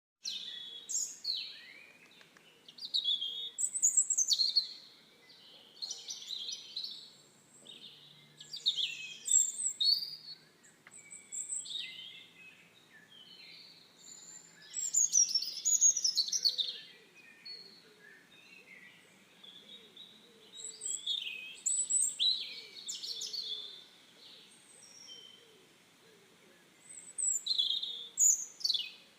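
A bird singing in bursts of quick, varied, high-pitched chirps and whistles, with short pauses between phrases every few seconds.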